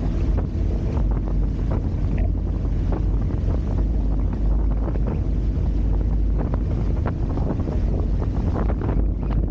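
Wind buffeting the microphone over the rush of water along a Hobie Tiger F18 catamaran's hulls under sail, with frequent short splashes and slaps.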